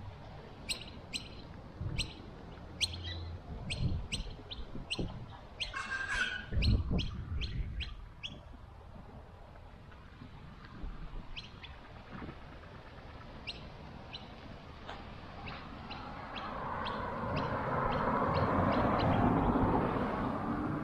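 A small bird calling in a long run of short, sharp chirps, about two a second, loudest in the first few seconds and fainter after. Near the end a rushing noise swells and fades away.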